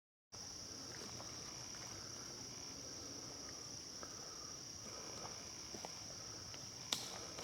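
Steady, high-pitched chorus of insects such as crickets trilling without a break, with one sharp click near the end.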